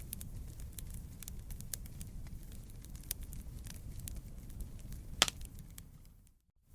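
Wood campfire burning: a low rumble of flames under a steady scatter of sharp crackles and pops, with one loud pop about five seconds in. The sound fades out to near silence just before the end.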